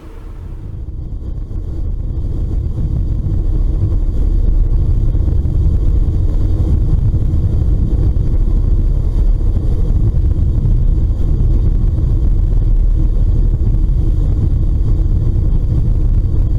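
Loud low rumbling noise on the deck of a moving ferry, from wind on the microphone and the ship under way. It grows louder over the first four seconds, then holds steady.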